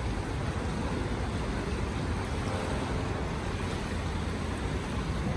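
Strong wind buffeting the microphone over waves breaking on a lakeshore, a steady rumbling rush with no single distinct event.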